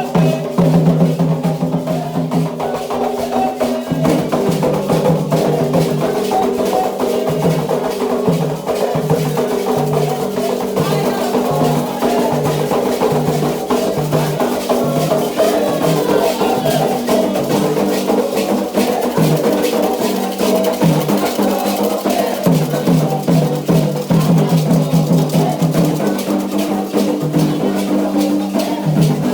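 Candomblé ritual music: atabaque hand drums playing a steady driving rhythm with shakers and a struck wood-block-like pattern, under group chanting.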